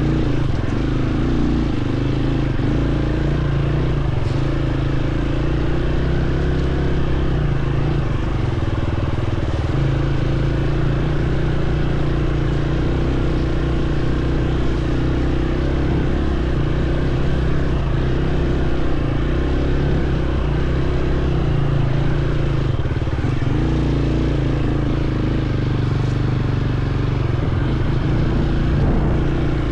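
Dirt bike engine running steadily while riding, its note stepping up and down a little a few times.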